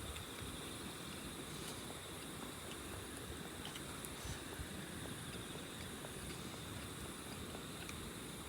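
Insects trilling steadily in a high, rapidly pulsing chorus, over a low, even rumble of background noise.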